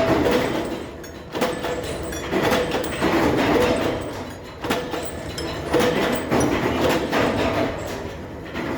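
Metalworking machinery in a bolt factory running: a steady mechanical rumble that swells and fades, with several sharp metallic knocks.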